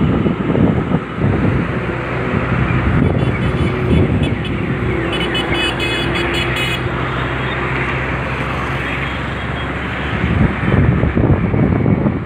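Loud wind noise on the microphone over a steady engine hum, with a brief higher tone in the middle.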